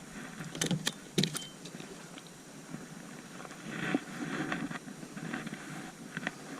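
A hooked redfish thrashing while it is being handled: a few sharp knocks and clicks in the first second and a half, then splashing around the middle.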